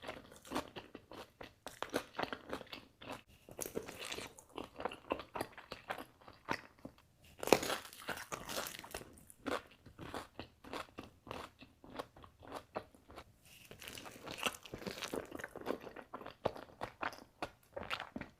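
Pizza being bitten and chewed close to the microphone: a crispy crust crunching in many short bites between stretches of chewing, with the loudest crunch a little before halfway.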